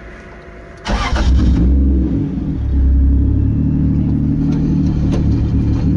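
Turbocharged 2JZ-GTE straight-six in a Nissan 240SX revved up about a second in and held at raised revs with a low rumble, as a learner gives gas to pull away on the clutch.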